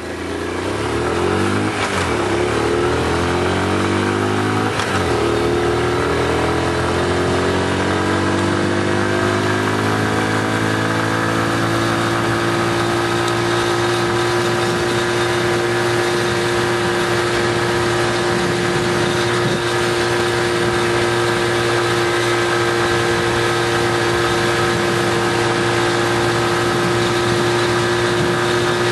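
Car engine pulling away, rising in pitch through two gear changes about two and five seconds in, then holding a steady note at cruising speed, with tyre and road noise.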